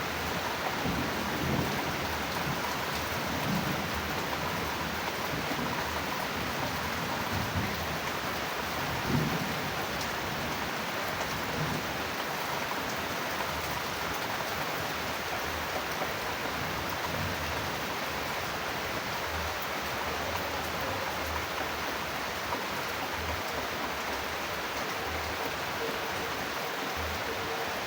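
Steady rain falling, with low rolls of thunder rumbling through the first ten seconds or so; the strongest comes about nine seconds in.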